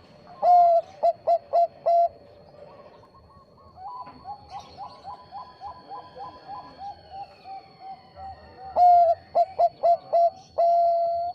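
Zebra doves of the Bangkok perkutut strain cooing. Two loud song phrases, each a long note followed by a quick run of short notes; the second ends on a long held note near the end. Between them a quieter run of rapid short coos.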